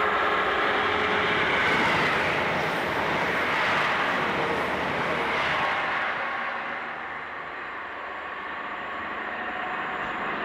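Diesel multiple unit passenger train running through the station, a steady rush of engine and wheel-on-rail noise that fades about six seconds in.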